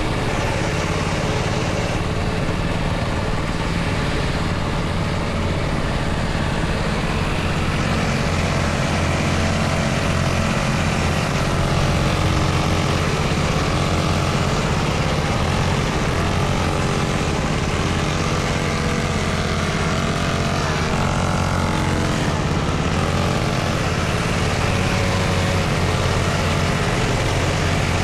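Motorcycle engine running with a steady low drone; from about eight seconds in to near the end its pitch rises and falls again and again.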